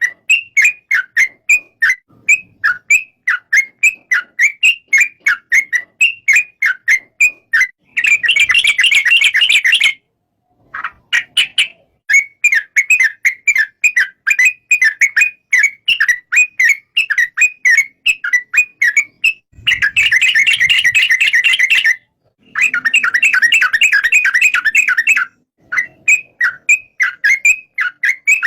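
Yellow-vented bulbul (trucuk) calling: short, loud whistled notes repeated about three a second, broken three times by a few seconds of dense, rapid chattering.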